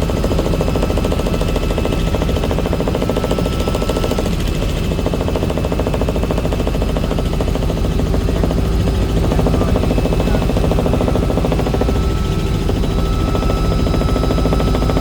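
Helicopter running, its rotor making a fast, steady chop with a constant high tone over it.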